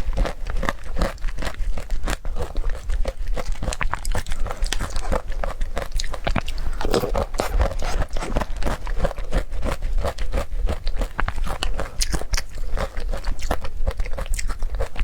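Close-miked chewing: a dense run of wet mouth clicks and small crunches from someone eating Greek yogurt with blueberries and pineapple.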